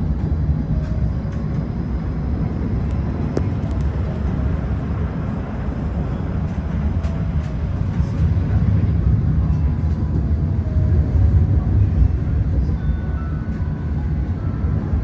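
Light rail tram running, heard from on board: a steady low rumble with a faint whine over it, swelling slightly partway through.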